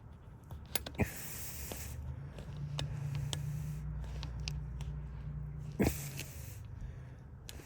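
Sharp metal clicks and knocks of hand tools and lock parts being worked at a bench, a pair about a second in and a louder one near the end, with a short hiss after the first pair and a low hum through the middle.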